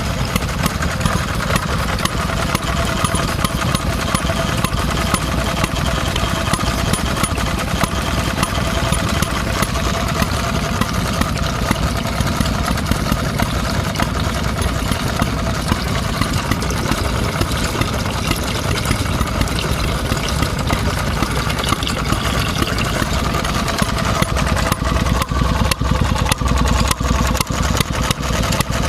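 Vintage stationary engine running steadily, getting somewhat louder near the end.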